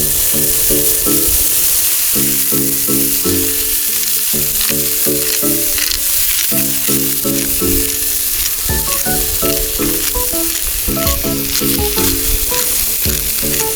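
Food sizzling and frying in a pan, a steady hiss. Background music with short, rhythmic chords plays over it.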